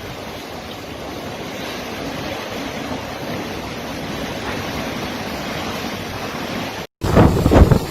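Storm wind blowing as a steady rushing noise. After a brief cut near the end, strong gusts buffet the microphone much more loudly.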